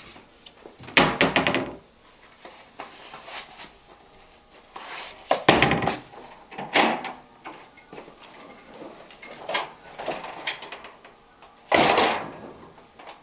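Household handling sounds: a series of knocks and scrapes. The loudest come about a second in, around five to seven seconds in, and in a longer one near the end.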